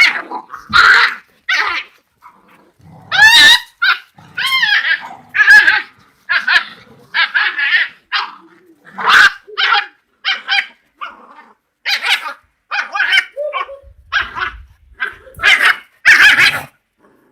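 Kombai puppies fighting: a rapid, irregular run of short barks, yelps and growls, with some higher sliding yelps a few seconds in.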